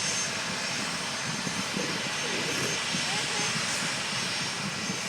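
Boeing 757 jet engines at takeoff power as the airliner climbs away, a steady broad roar.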